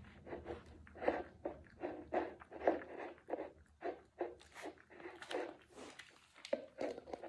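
Dog chewing and crunching food, rapid crunchy bites about three a second.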